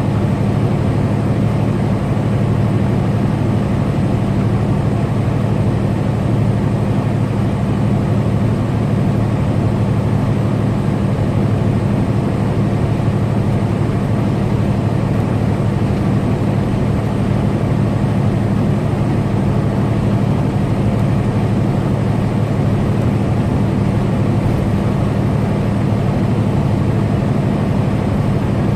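Semi truck running steadily at highway cruising speed: an even, loud engine drone with road noise, unchanging throughout.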